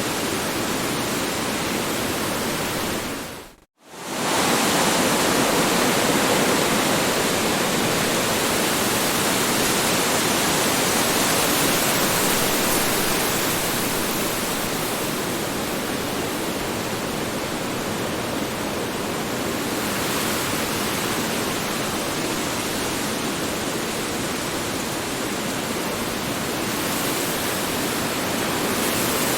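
Strong wind blowing, a steady even rushing noise. About three and a half seconds in it fades out to silence for a moment and then comes straight back at full strength.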